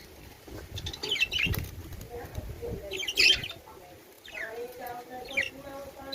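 Caged birds chirping and squawking in short, sharp clusters of calls, with a lower, steady-pitched call or voice about four and a half seconds in.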